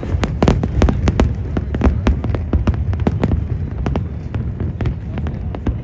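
Fireworks display going off in rapid succession: sharp bangs and crackles, several a second, over a continuous low rumble.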